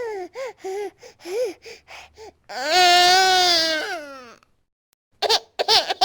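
Baby crying: about two seconds of short, choppy sobbing cries, then one long loud wail, a brief pause, and more short sobs near the end.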